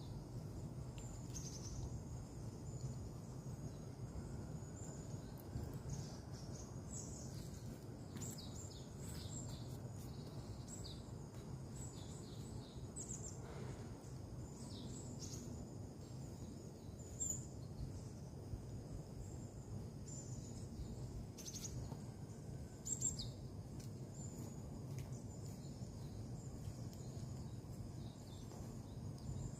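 Small birds chirping over and over against a steady low rumble of background noise, with a few brief clicks.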